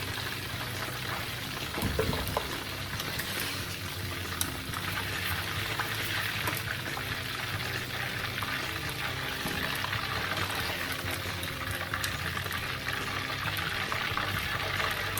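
Cornflour-battered chicken pieces deep-frying in hot oil: a steady bubbling sizzle with fine crackles as moisture boils out of the chicken. A brief knock about two seconds in.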